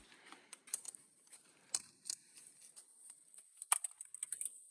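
Faint, scattered clicks and taps of hand tools on metal as a stuck bolt is worked at, with a sharper click about a second and three-quarters in and another near four seconds.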